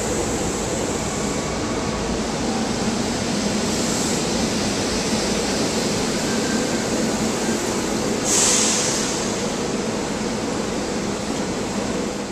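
SEPTA electric commuter train pulling slowly into the station along the platform: steady rolling noise with a low hum, and a short burst of hiss about eight seconds in.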